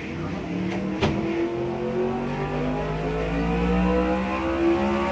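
Sport motorcycle engine under load on a chassis dyno, its revs climbing slowly and steadily through a gear pull. A single sharp click comes about a second in.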